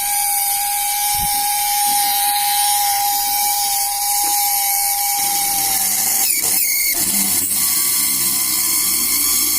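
Homemade drill made from a small 12 V DC motor running with a steady high whine; about five seconds in its pitch dips slightly and a grinding noise joins as the bit comes under load drilling into a brick.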